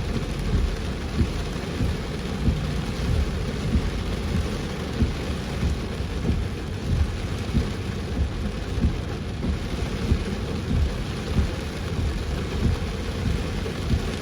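Heavy rain pouring steadily, with a continuous low rumble and frequent irregular low thuds throughout.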